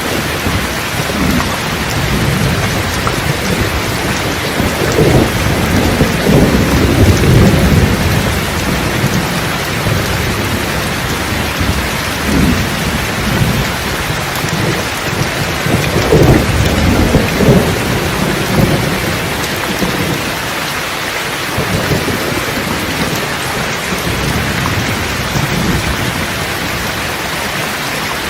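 Steady rain with rolling thunder: a long rumble about five seconds in, a smaller one near the middle, and another long rumble around sixteen seconds.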